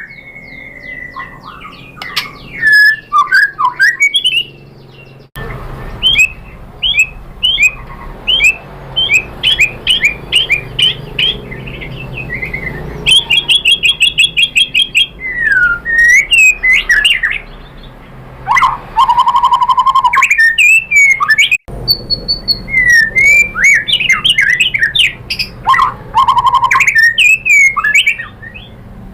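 White-rumped shama (murai batu) singing: a long run of quick, sharp whistled notes and slurs, with a fast trill partway through and a few lower held whistles in the second half.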